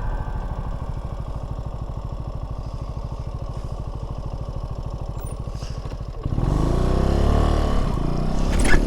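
Mini motorcycle engine idling with an even, fast putter, then about six seconds in it gets louder and the pitch climbs as the bike pulls away and speeds up.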